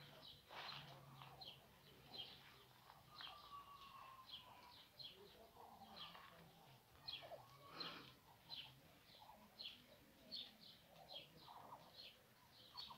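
Faint bird chirping: a steady run of short, high chirps, a few a second, with one longer, slightly falling whistle about three seconds in.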